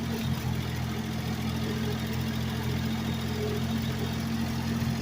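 Ford 4000 tractor's three-cylinder gasoline engine running at a steady speed while the front loader works hard ground.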